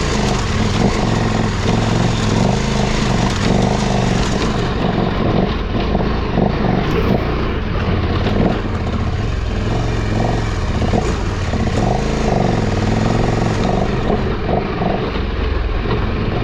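KTM 1290 Super Adventure R's V-twin engine working hard up a steep dirt climb, its revs rising and falling again and again as the throttle is worked, over a rough rushing noise.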